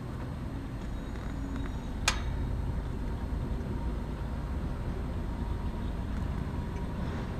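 Steady low background rumble with a single sharp click about two seconds in.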